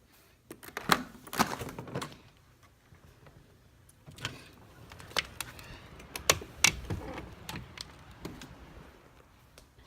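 Handling noise: a string of sharp clicks and knocks with rustling between them, thickest about a second in and again in the middle.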